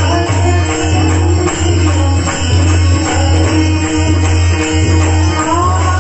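Kirtan devotional music: instrumental accompaniment with rhythmic jingling percussion. A woman's singing voice comes in near the end.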